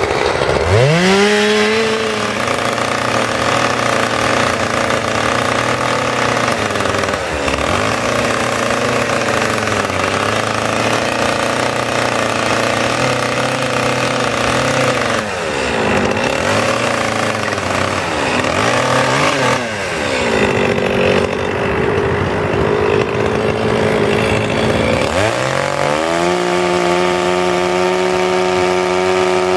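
Two-stroke chainsaw revving up and cutting wood, its pitch dipping and recovering several times as the chain bites under load. Near the end it climbs to a higher, steady pitch, running free out of the cut.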